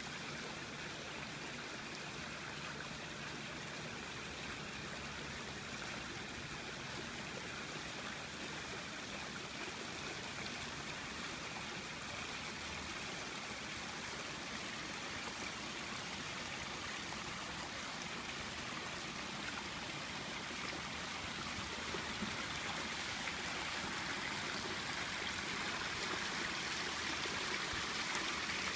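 Water splashing and trickling steadily over a landscaped backyard waterfall feature, growing a little louder over the last several seconds.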